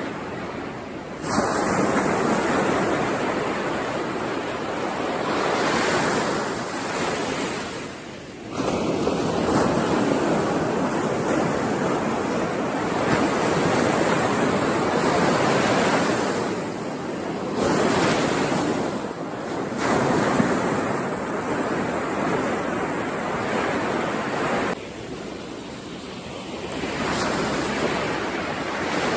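Ocean waves breaking and washing ashore one after another, rising and falling in loudness, with sudden surges about a second in and again near nine seconds.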